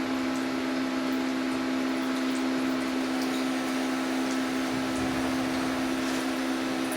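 Steady mechanical hum, even in level, with two steady tones and a faint scattering of light high ticks.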